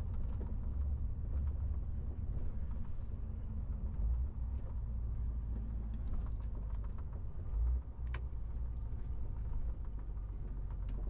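MAN TGX 18.470 truck on the move: a steady low rumble of engine and road noise, with a few faint clicks.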